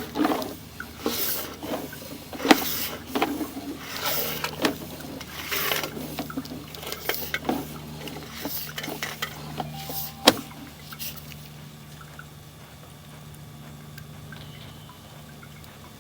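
Water splashing and dripping inside a cast-iron sewer line as the inspection camera is pushed along it, with irregular splashes and knocks for about the first ten seconds, then only a quieter steady hum.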